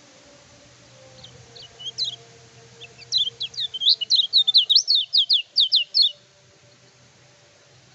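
Kecial kuning, a white-eye songbird, singing: a few scattered high chirps, then a fast, loud run of sharp sweeping notes, about four a second for some three seconds, which breaks off suddenly.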